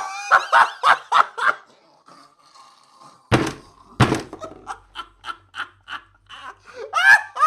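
A run of stock sound-effect clips: short bursts of laughter, then two heavy thuds a little under a second apart, then more laughter.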